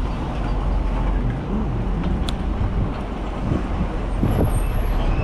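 City street traffic: motor vehicles running and passing over a steady low rumble, heard from a moving bicycle. A brief click comes a couple of seconds in, and a short high-pitched squeal comes near the end.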